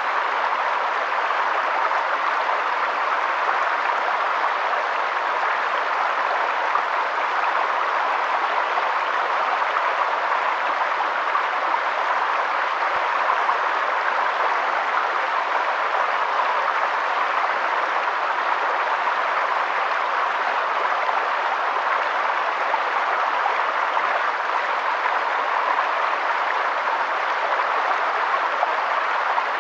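Mountain river flowing over stones, a steady rushing and splashing of water.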